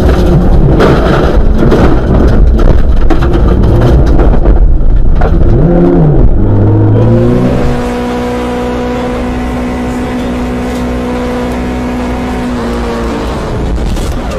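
Rally car engine revving hard, its pitch rising and falling through throttle and gear changes. About eight seconds in it drops quieter to a steady, held engine note.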